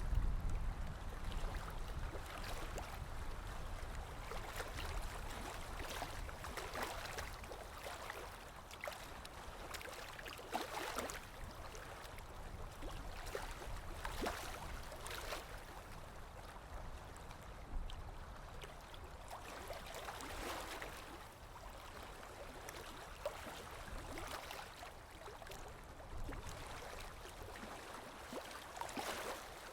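Sea waves washing in: a continuous wash of water with a swell of hiss every few seconds as each wave breaks and runs up, and a low rumble near the start.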